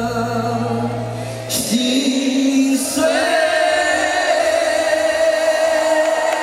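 Live band and male singing at a concert: the bass and chord cut off about a second and a half in, then a male voice holds one long high note to close the song.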